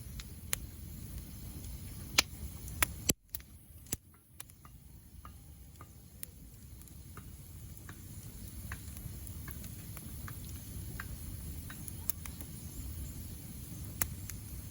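Wood bonfire burning: a steady low rumble with scattered sharp crackles and pops, a few of them loud, and a brief drop in level about three seconds in.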